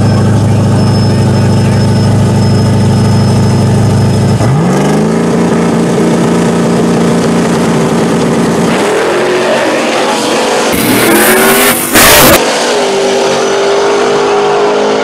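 Two drag cars, a Chevrolet Camaro SS F-body and a Fox-body Mustang, rumbling steadily at the starting line, then launching about four and a half seconds in. Engine pitch climbs and steps up through the gears as they pull away down the track, with a brief loud rush of noise near the end.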